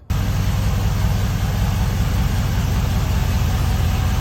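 Old Chevrolet OBS ramp truck's engine idling steadily through a short open stovepipe exhaust, coming in abruptly just after the start.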